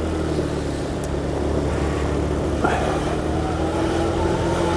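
125 cc motorcycle engine running at low road speed in traffic. About two and a half seconds in, a higher engine tone comes in and climbs slightly as the bike picks up.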